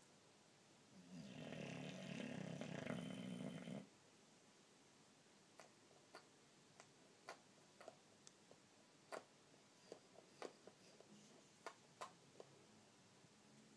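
Boxer dog snoring while asleep: one long snore of nearly three seconds about a second in, then a quiet pause broken by scattered faint clicks.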